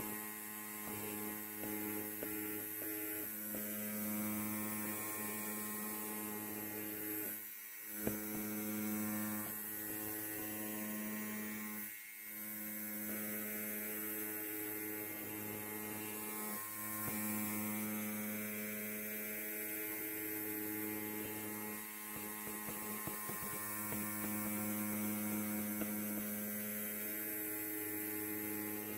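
Electric hair clipper running with a steady buzz, dipping briefly twice and giving one sharp click about eight seconds in.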